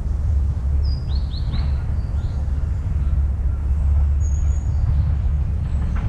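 Small birds giving short falling chirps, a quick run of three about a second in and a few single high notes later, over a steady low rumble that is louder than the birds.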